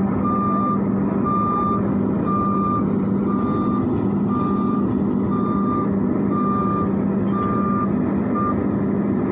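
Reversing alarm of heavy construction machinery beeping about once a second over a steady engine drone; the beeps stop near the end while the engine keeps running.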